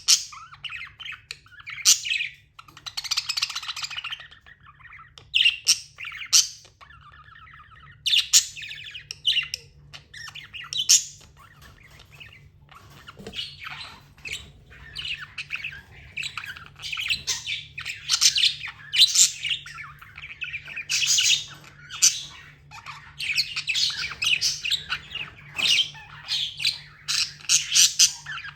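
Pet budgerigars chirping and squawking: a busy, irregular stream of short high chirps and harsher squawks, thicker in the second half.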